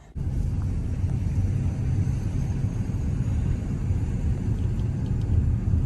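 Steady low rumble of a car driving along a road, starting abruptly.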